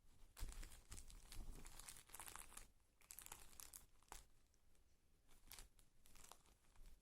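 Cat playing with Tempo paper tissues: irregular crinkling and tearing of tissue paper in quick bursts, busiest in the first four seconds and sparser after.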